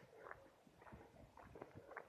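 Faint footsteps of a person walking, a soft irregular crunching several times a second.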